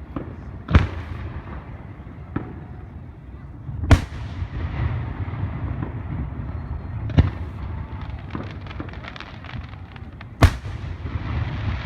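Fireworks going off: four loud, sharp bangs about three seconds apart, with a smaller pop between the first two and a quick run of crackling after the third.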